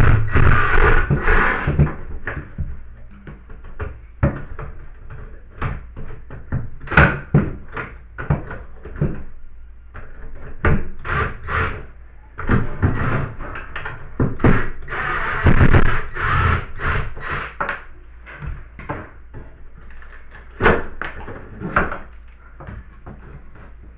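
Irregular knocks, clunks and rattles of hand tools and metal fittings being handled and struck while taking apart a bathtub tap assembly, with bursts of scraping in between.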